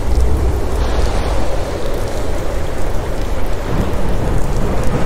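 Steady rain with a low rumble of thunder underneath, the rumble strongest in the first second.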